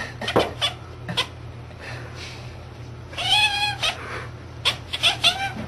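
Domestic cat chattering while watching something outside a window: quick bunches of short chirping clicks, with one longer, wavering call about three seconds in.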